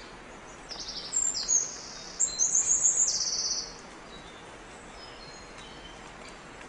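A small bird singing a few short phrases of high, rapid trills for about three seconds, then stopping.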